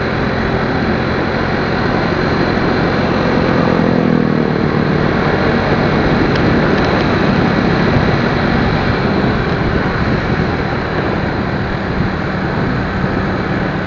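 Motorcycle riding through traffic: steady engine running under loud wind and road noise on the microphone, with the engine pitch rising as it speeds up about three to four seconds in.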